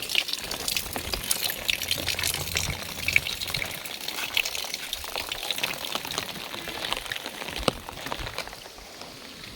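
Heavy monsoon rain falling, a dense hiss full of small sharp drop impacts, easing slightly near the end.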